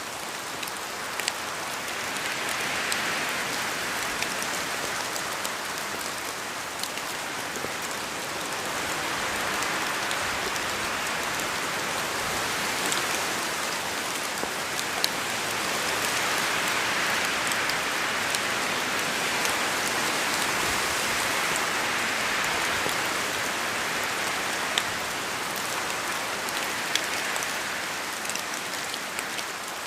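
Steady rain falling in a forest, with scattered drops ticking. The rush swells and eases every few seconds.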